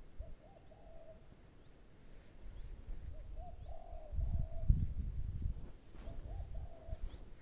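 Three short hooting animal calls, about three seconds apart, over a steady high insect trill.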